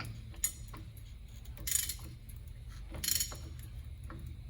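Metal hand-tool work on a truck's front wheel hub assembly: a sharp click, then two short metallic rasps about a second and a half apart, over a steady low hum.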